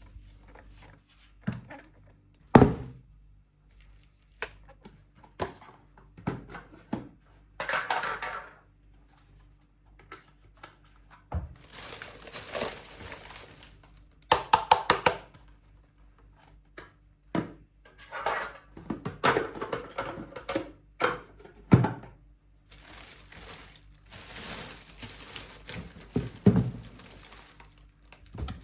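Close-up household tidying sounds: objects are picked up and set down with separate knocks and thunks, the sharpest a few seconds in, between longer stretches of rustling and crinkling.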